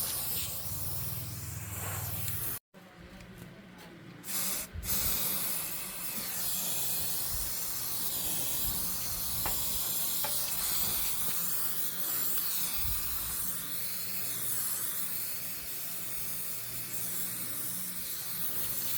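Steady hissing of a pressurised spray, with a steady low machine hum underneath; the sound cuts out briefly about three seconds in.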